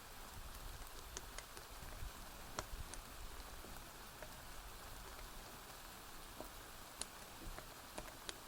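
Steady rain hiss with scattered sharp crackles and pops from a wood fire, a few of them standing out above the rain.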